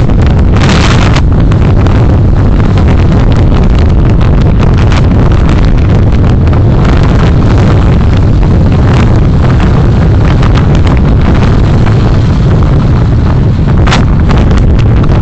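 Car dashcam sound while driving: loud, steady road and wind rumble on the dashcam's microphone, with a few brief hissy swells.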